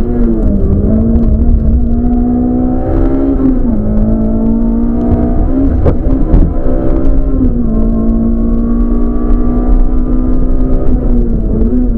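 Rally car engine heard from inside the cabin, pulling hard on a stage. Its pitch climbs and then drops sharply at each gear change, about every four seconds. There is a single sharp knock about six seconds in.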